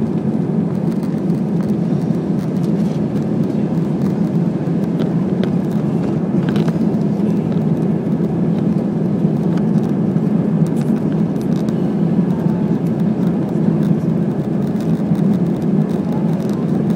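Steady roar of an Airbus A320's jet engines and airflow heard inside the passenger cabin during the climb after takeoff.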